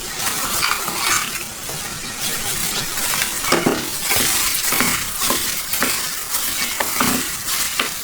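Food sizzling as it fries, with a utensil stirring and tapping irregularly against the pan.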